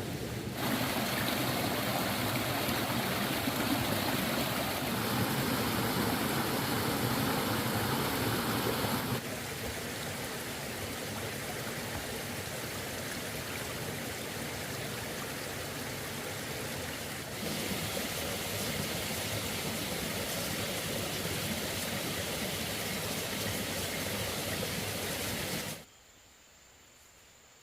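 Steady rushing noise like running water, heard in several separate stretches that change in loudness about 9 and 17 seconds in. It drops away to a quiet background near the end.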